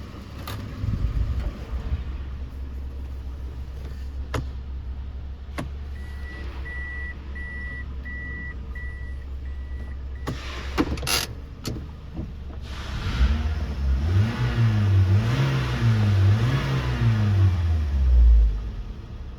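Toyota 1NZ-FE 1.5-litre four-cylinder engine idling steadily, then revved up and down about three times before settling back; it runs evenly, with no hunting in the revs. A short run of electronic beeps and a few sharp clicks sound in the middle.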